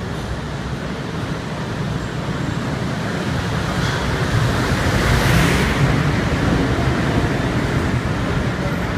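EF510 electric locomotive and its sleeper coaches rolling slowly into a terminus platform. A steady low rumble of wheels on rail swells to its loudest as the locomotive passes, about five seconds in, then carries on as the coaches roll by.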